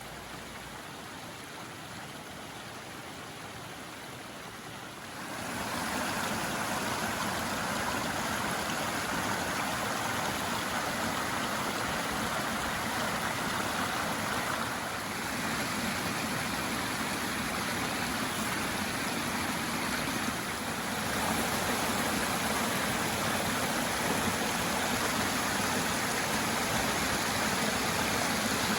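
A stream running, a steady rush of flowing water that gets louder about five seconds in and steps up slightly again about twenty seconds in.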